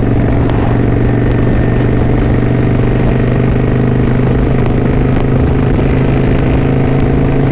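Kawasaki Vulcan 900 Classic LT V-twin motorcycle engine running at a steady cruising speed, one unchanging engine note with road and wind noise, heard from the rider's helmet mic.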